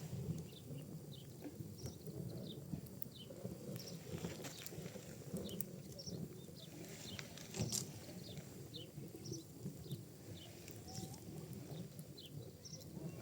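Wood and pinecone fire crackling in a fireplace: a low steady rumble of the flames with scattered sharp pops, the loudest about seven and a half seconds in.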